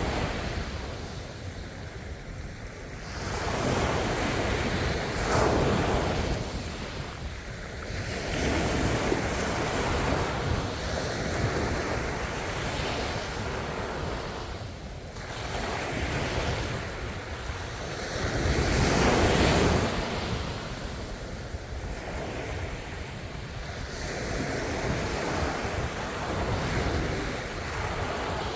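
Ocean waves breaking and washing on the shore in slow, uneven swells, each surge rising and falling over several seconds, with wind on the microphone.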